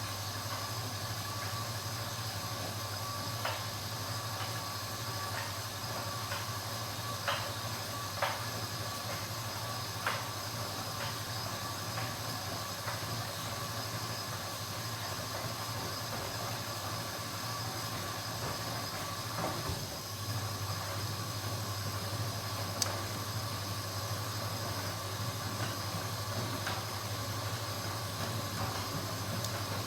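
Washing machine running: a steady motor hum with faint clicks and knocks every second or two. About twenty seconds in the hum briefly drops, then comes back a little stronger.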